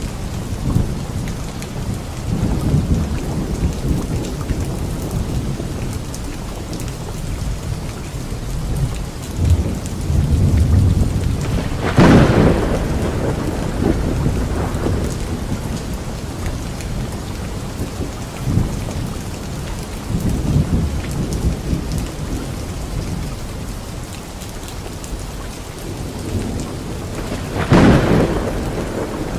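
Steady rain falling, with rolling thunder rumbling throughout and two loud, sharp thunderclaps, one about twelve seconds in and one near the end.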